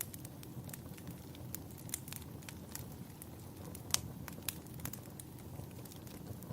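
Wood fire in a fireplace crackling, with sharp pops at irregular intervals over a steady low rumble; the loudest pop comes about four seconds in.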